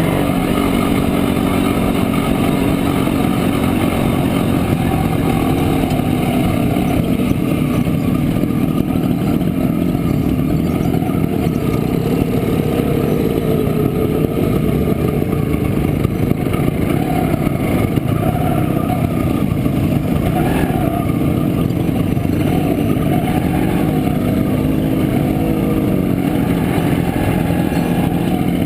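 1967 Montesa Impala Comando 175 cc single-cylinder two-stroke motorcycle engine running steadily under way, its pitch rising and falling slightly as the throttle changes.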